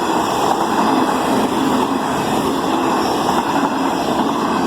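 Queensland Rail electric passenger train passing close by at speed: a loud, steady roar of wheels and running gear on the rails.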